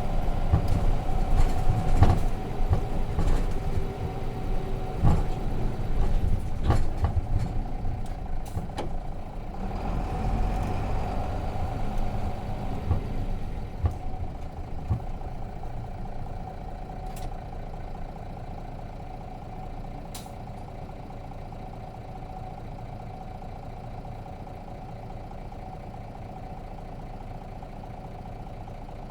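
Nissan Diesel RM bus's FE6 six-cylinder diesel engine heard from inside the cabin. It is louder and uneven, with rattles and knocks, for roughly the first fifteen seconds, then settles to a steady, quieter idle.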